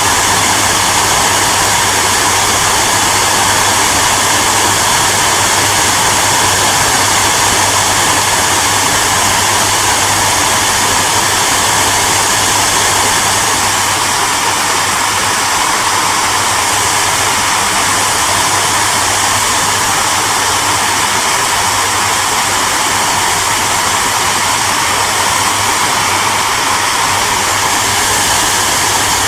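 Hair dryer running steadily, a continuous loud rushing of air with a low hum from its motor.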